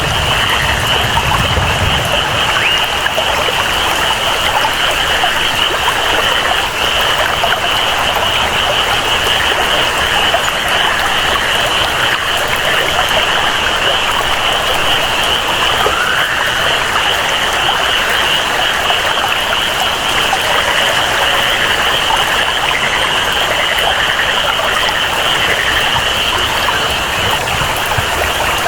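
Tropical rainforest ambience: steady rain and running water under a continuous high-pitched chorus of calling animals, typical of frogs and insects in a jungle.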